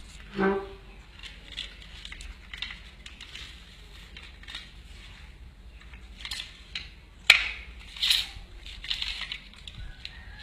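Hand-work noise from handling and cutting materials, a run of small clicks, rustles and crackles. A sharp click comes about seven seconds in, followed by a louder rustle. A brief pitched sound comes about half a second in.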